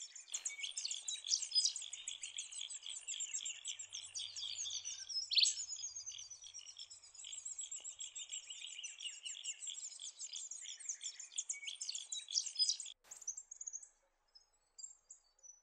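Many birds chirping and twittering in a dense, continuous chorus of high calls. It breaks off abruptly about 13 seconds in and is followed by only a few faint scattered calls.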